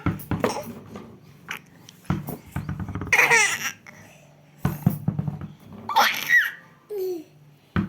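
A baby laughing in short bursts of high-pitched giggles, about three seconds in and again about six seconds in. Each burst follows dull knocks of a ball falling and bouncing.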